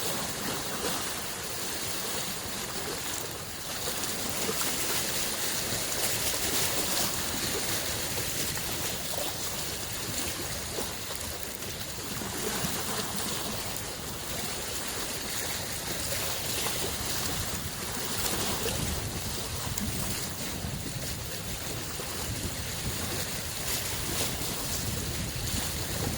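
Small lake waves lapping and washing at the shore, a steady wash that swells and ebbs every few seconds, with some wind on the microphone.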